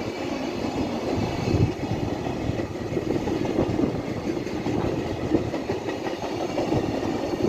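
Electric train running past on the tracks, a steady rumble of wheels on rail with many short knocks.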